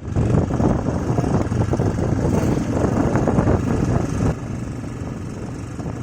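Motorcycle engine running on the move, loud and rough at first, then dropping quieter about four seconds in.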